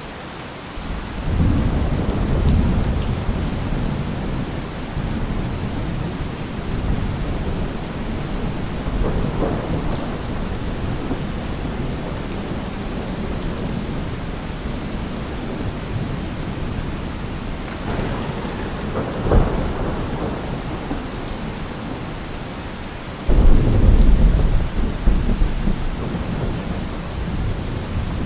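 Steady rain with rolling thunder. A long low rumble builds about a second in, a sharp crack comes about two-thirds of the way through, and a sudden loud close thunderclap rumbles on near the end.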